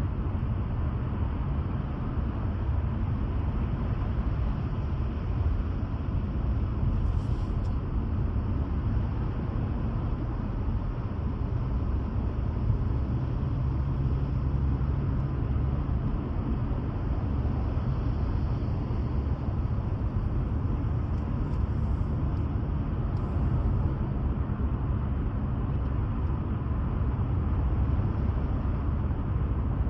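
Steady low rumble of a car driving at a constant speed, engine and tyre noise with no change through the stretch.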